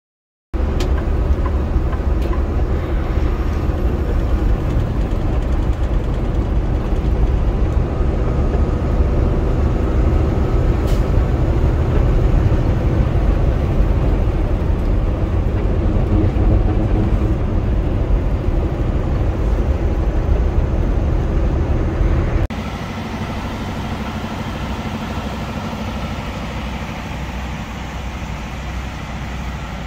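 Semi truck driving down the highway: a steady, loud low engine drone with road noise. About three quarters of the way through, it cuts suddenly to a quieter, thinner drone.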